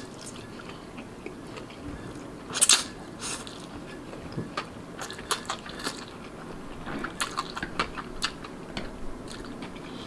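Slurping and chewing a mouthful of fried instant noodles close to the microphone: a loud slurp a few seconds in, then a run of soft, wet chewing clicks.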